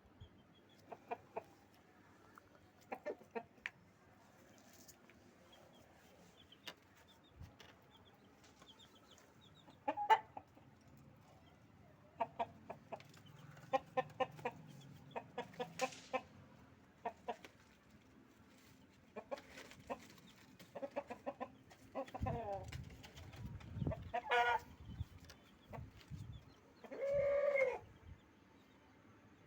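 Aseel rooster clucking in short, quick runs of notes, with one longer drawn-out call near the end. Low thumps and rumbling come in about two-thirds of the way through.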